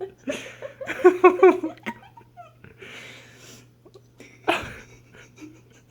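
A person laughing in a quick run of high, giggly bursts about a second in, then breathy laughing exhalations, one sharp one near the end. A faint steady hum sits underneath.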